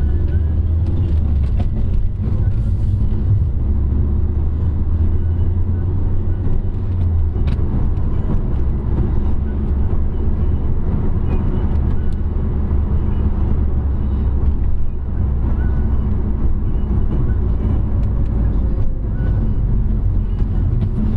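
A car driving on the road: steady low rumble of engine and tyre noise.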